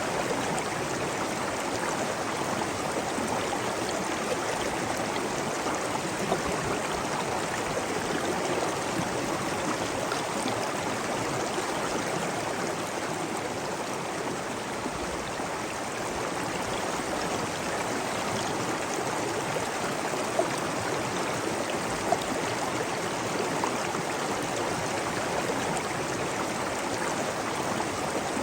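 Flowing water running steadily, like a stream, with a few brief sharp ticks standing out now and then.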